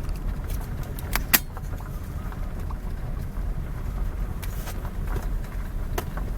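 Steady low rumble of a vehicle on the move, with a few sharp clicks: two about a second in and one near the end.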